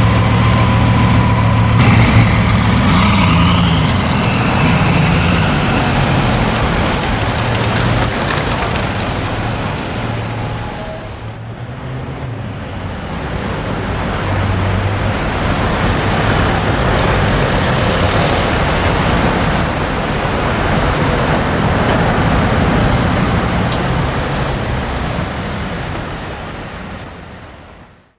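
Bugatti Veyron 16.4's quad-turbo W16 engine running at low revs through a Mansory exhaust, with street traffic around it. The sound fades out over the last few seconds.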